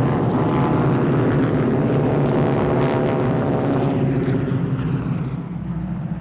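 A formation of North American T-6 Texans, Harvards and SNJs flying past, their Pratt & Whitney R-1340 radial engines and propellers making a loud rasping drone. The pitch falls slightly as they pass, and the sound fades over the last second or two.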